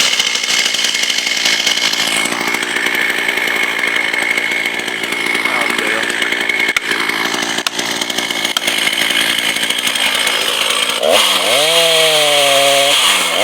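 A power saw running steadily through a felling cut on a birch. About eleven seconds in, the motor revs up, holds high and then drops back.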